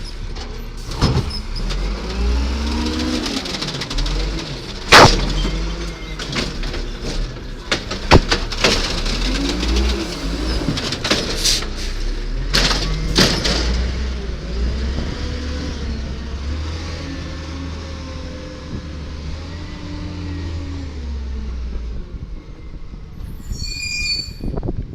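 Diesel engine of a 1999 Volvo Amrep Octo automated side-loader garbage truck revving up and down several times as it works the hydraulic arm, with sharp metallic bangs of a cart being dumped and knocked against the hopper, the loudest about five seconds in and a cluster around twelve to thirteen seconds in.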